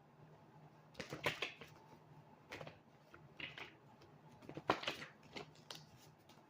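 Irregular light clicks and short rustles, about nine in all, with the loudest clustered about a second in and again near five seconds in.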